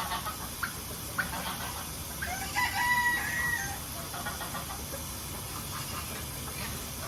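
A rooster crowing once, a level, drawn-out crow about two and a half seconds in, among shorter calls and clucking from chickens.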